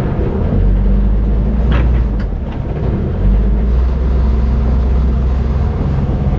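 Strong wind buffeting the microphone on a sailboat in 25 to 30 knots of wind: a loud, steady low rumble, with a couple of brief knocks or splashes about two seconds in.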